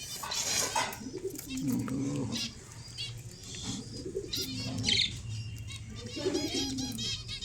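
Cockatiels chirping in many short, quickly repeated high calls, with a flurry of noise like flapping wings in the first second.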